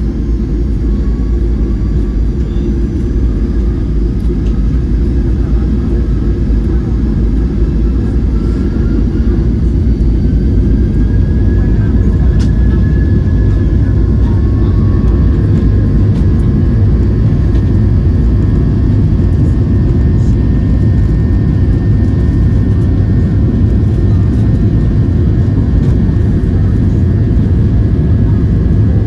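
Boeing 737-800's CFM56 jet engines heard from inside the cabin during takeoff: a loud, steady rumble with a faint rising whine, building over the first half and then holding at full power.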